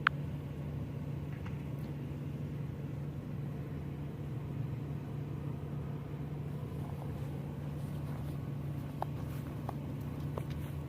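Steady low engine hum, like an idling vehicle, with a single sharp click at the very start and a few faint ticks later on.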